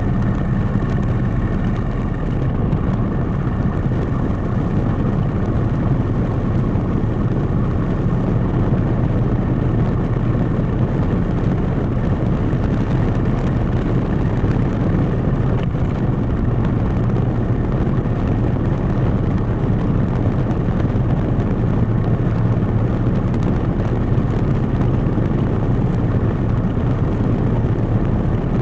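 Motorcycle riding along, its engine under a steady deep rumble of wind buffeting the microphone.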